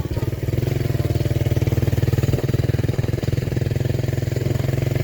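Motorcycle engine running steadily while riding, with a rapid, even putter of exhaust pulses.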